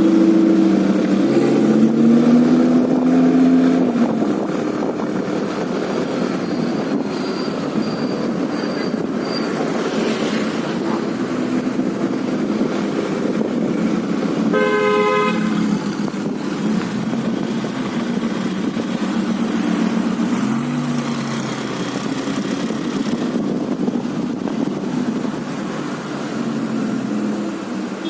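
City street traffic: car engines running and passing, their pitch rising and falling, with a vehicle horn honking once for about a second about halfway through.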